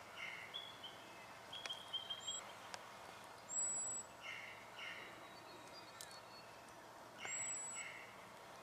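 Spotted quail-thrush calling: thin, very high drawn-out whistles, three of them, with shorter doubled chirps from lower-pitched bird calls in between.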